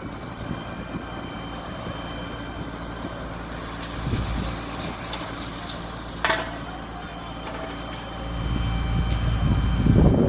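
Heavy truck engine running steadily. A sharp sudden crack comes about six seconds in, and a deep rumble swells near the end.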